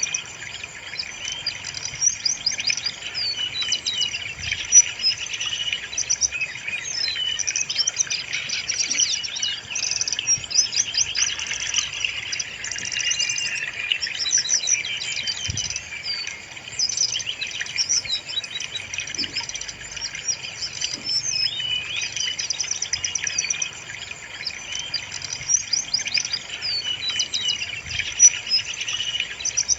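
Brown-chested jungle flycatcher song: a continuous stream of rapid, varied high chirps, trills and quick sweeping notes.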